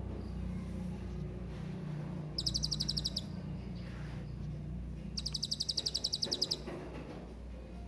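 A hanging parrot (serindit) calling: two quick runs of rapidly repeated high, thin chirps, the second run longer than the first, over a steady low hum.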